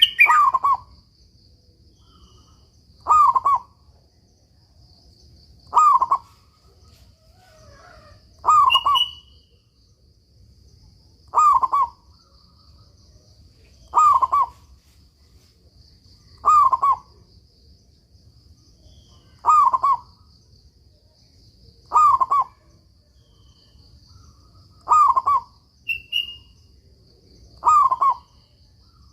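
Zebra dove (perkutut) cooing: a short falling phrase repeated eleven times, about every three seconds.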